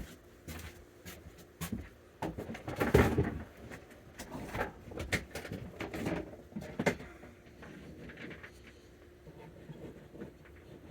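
Scattered knocks, clicks and rattles of things being handled indoors, with a louder clattering rustle about three seconds in and smaller ones over the next few seconds.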